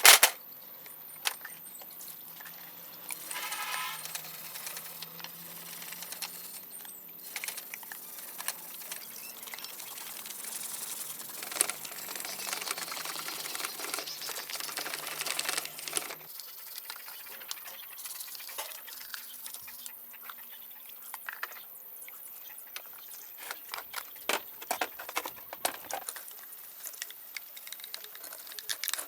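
Light metal clinks, taps and scrapes of engine parts and tools being handled. A sharp knock comes at the very start and a brief squeak a few seconds in, with a few seconds of rushing, scraping noise in the middle.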